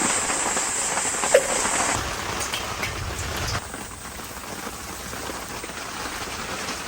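Hot oil sizzling as it is poured over chili flakes to make chili oil, a dense crackling hiss that dies down after about three seconds.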